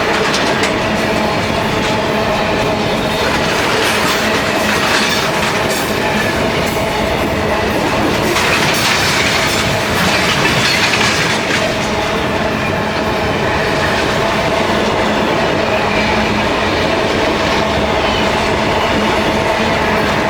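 Mauritanian iron ore freight train's wagons rolling on the rails: a loud, steady, continuous clatter of wheels over the track with a faint steady tone underneath.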